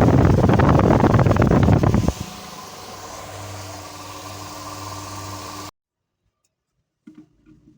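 Farrata fan motor running with a loud, rapid rattling clatter for about two seconds, typical of a worn bearing, then settling to a steady, quieter motor hum that cuts off abruptly a few seconds later.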